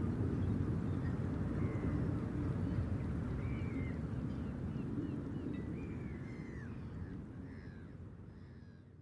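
Outdoor estuary ambience: birds calling in short, curved, down-slurred calls over a steady low rumble, fading out near the end.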